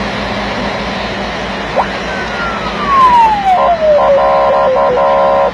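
A vehicle's engine runs steadily while a siren-like tone glides down in pitch, followed by a string of short, chopped horn blasts.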